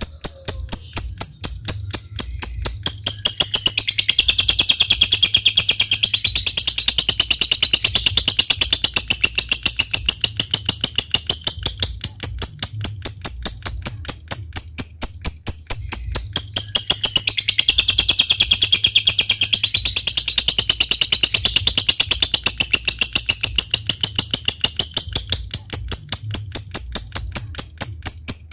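Lovebird calls: rapid, evenly repeated high ticking chips ("ngetik") that twice run into a long, continuous chattering trill ("ngekek"), first about four seconds in and again past the middle, over a faint low hum.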